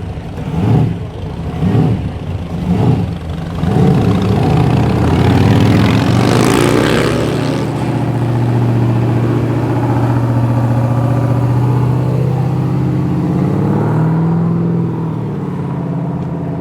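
An old car's engine is blipped in short revs about once a second. It then revs up hard and settles into a steady drone, with a small swell near the end as the sound eases off.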